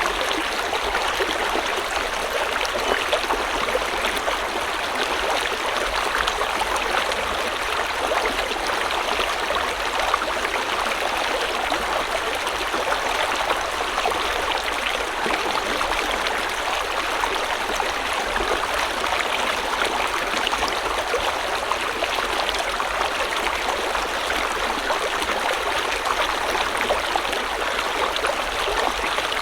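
River water flowing steadily over rocks, a continuous babbling and splashing rush with no change in strength.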